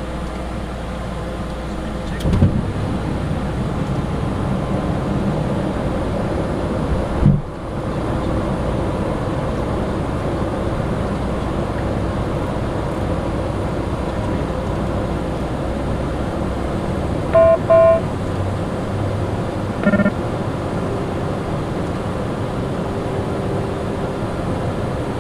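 Steady cockpit noise of a Cessna Citation Sovereign in flight, a constant rush of airflow and engine. There are two dull thumps in the first third, then two quick electronic beeps about two-thirds in and one more shortly after.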